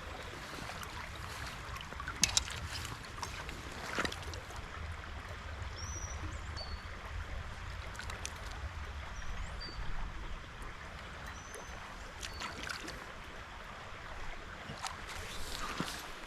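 Small stream water running and trickling, with a few sharp splashes or knocks and a steady low rumble underneath.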